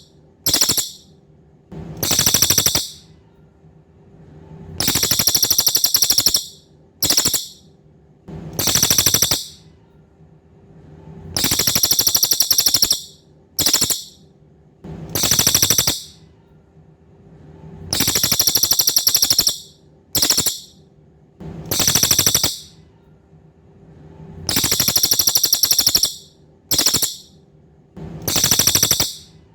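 A cililin songbird singing high, rapid rattling trills in repeated phrases: a long trill, a short one, then another, the pattern coming round about every six to seven seconds.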